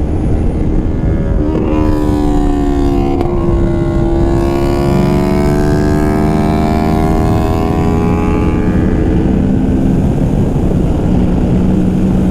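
Yamaha R3's parallel-twin engine pulling hard under way: a rising note, a gear change about three seconds in, then a slower climb in pitch. Heavy wind rush on the helmet-mounted microphone lies under it.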